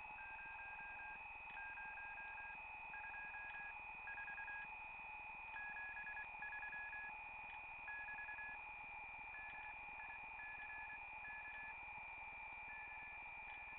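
One-tube regenerative radio receiver heard through its earphone: a Morse code (CW) signal as a tone keyed on and off in short and long elements, over a steady high whistle and a band of receiver hiss.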